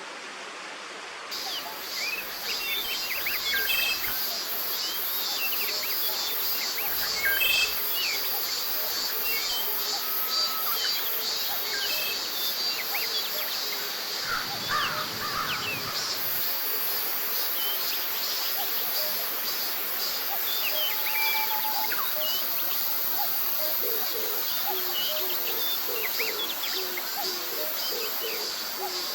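Cicadas singing in a forest: a high pulsing buzz that turns into a steady drone about halfway through, with many short bird chirps scattered over it. A run of low bird notes comes near the end.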